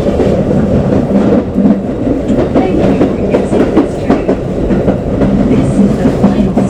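Keikyu New 1000 series electric train running, heard from inside the car: a steady rumble of wheels on rail with repeated clicks and clacks over the rail joints.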